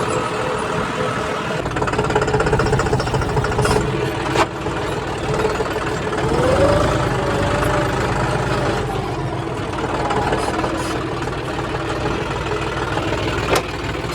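Diesel engine of a farm machine running steadily, with a brief rise in pitch about halfway through and a few sharp clicks, two around four seconds in and one near the end.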